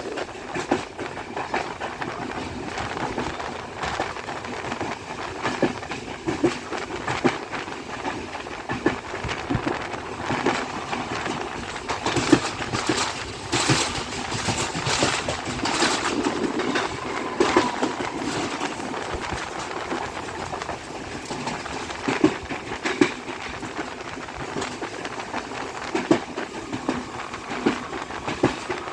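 Train running along the track, with wheels clicking and knocking on the rails over a steady rumble and rattle.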